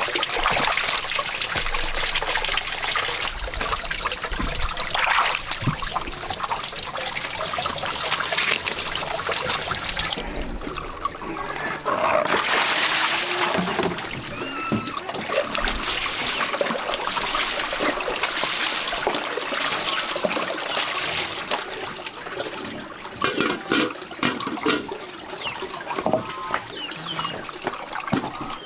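Water trickling and splashing steadily, with many small irregular knocks and clicks.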